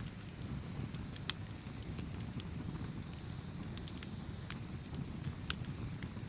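Campfire burning with a steady low rumble and irregular sharp crackles and pops from the wood, one pop standing out about a second in.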